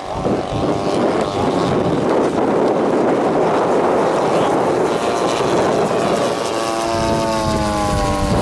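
Giant-scale radio-control model airplane running overhead, a steady propeller and engine drone; near the end the engine's pitch falls as it passes by.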